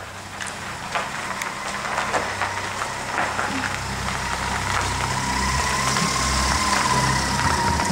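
Car engine running steadily at low revs, a low even hum that grows gradually louder, with a thin steady whine above it.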